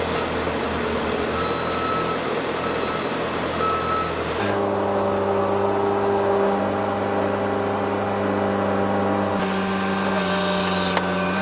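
Heavy diesel machinery running, with a reversing alarm beeping three times, about a second apart, in the first few seconds. The engine sound changes abruptly twice as it cuts to other machines running.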